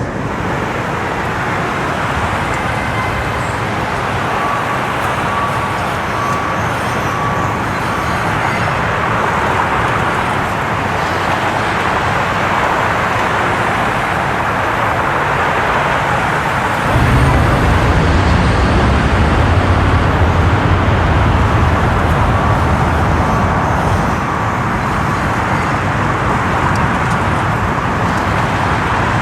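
Steady vehicle and road noise, without speech. A deeper rumble joins about two-thirds of the way through and fades again several seconds later.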